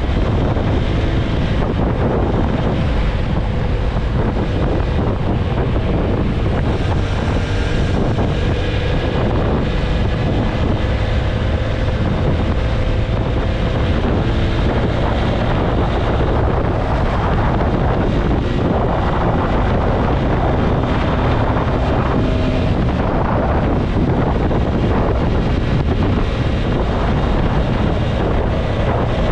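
Wind buffeting the microphone on a moving motorcycle, with the TVS Apache RTR 160 4V's single-cylinder engine running steadily underneath at cruising speed.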